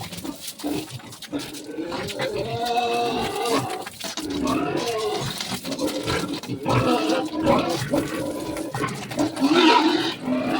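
Pigs squealing and grunting, with overlapping pitched calls that rise and fall throughout.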